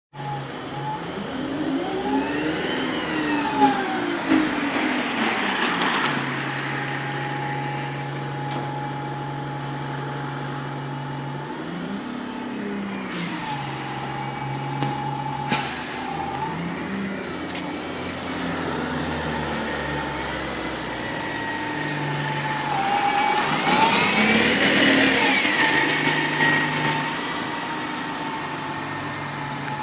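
Diesel bus engine idling and being revved up and down several times, the biggest rev near the end, with a few short air hisses in the middle.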